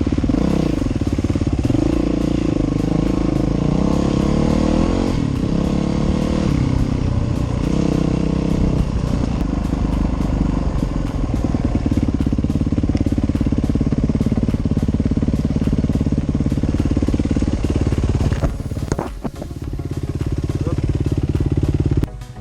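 Dirt bike engine running under throttle on a trail, its pitch rising and falling as the rider works the throttle. It eases off briefly near the end, then picks up again.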